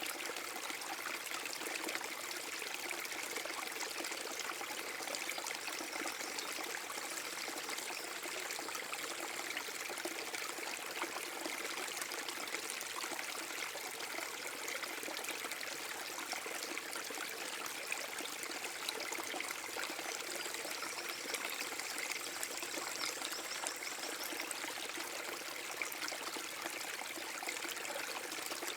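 Water of a small forest brook spilling over a mini waterfall, flowing and splashing steadily with no change.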